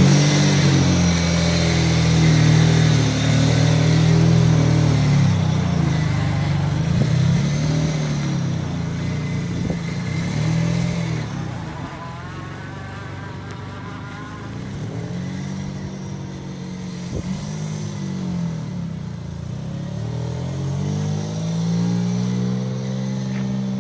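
Turbocharged V6 of a 1995 Mazda MX-3 pulling away and accelerating through the gears, its pitch climbing and dropping again several times. It is loudest in the first few seconds.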